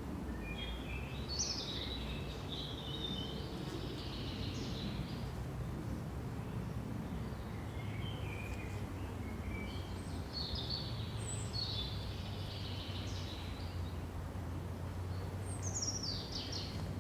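Birds singing: quick high chirping phrases about a second in and again from about eight to thirteen seconds, then a falling phrase near the end, over a steady low rumble.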